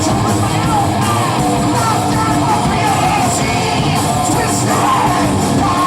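Live band playing loudly and continuously, with a singer's voice over the instruments.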